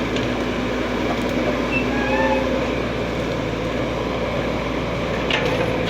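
A machine engine running steadily, a continuous drone with a low hum.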